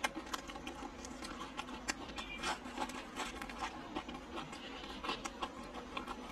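Close-miked chewing of a breaded fried chicken steak: irregular crunches and small mouth clicks.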